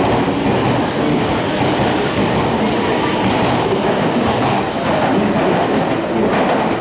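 Meitetsu 2200 series electric limited express pulling out of the station, its cars rolling past on the rails and then running away down the track.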